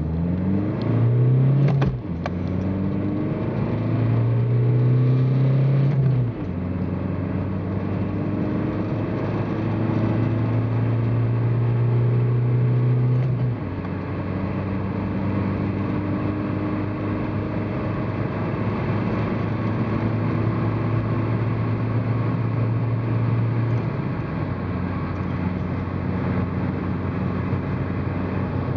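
Seat Arosa's 1.7 SDI naturally aspirated four-cylinder diesel accelerating at full throttle in a 0–100 km/h run, heard inside the cabin. The engine note climbs through each gear and drops back at four gear changes.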